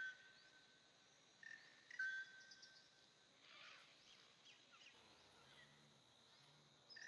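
Faint bird calls: several short whistled notes and a few quick falling chirps over a quiet outdoor background.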